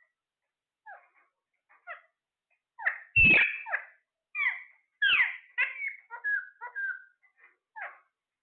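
A parrot making a run of short squawks and chirps, many falling in pitch, at irregular spacing. The loudest call comes about three seconds in, together with a low thump.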